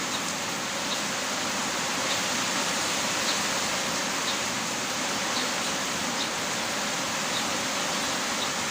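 Heavy rain falling steadily, an even wash of noise, with faint light ticks of drops about once a second.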